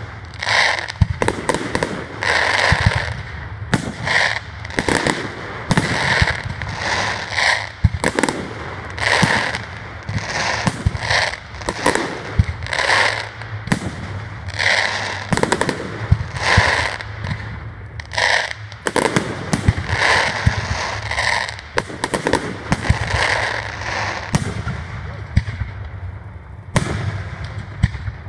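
Aerial firework shells bursting in quick succession: a dense, continuous run of sharp bangs, often several a second.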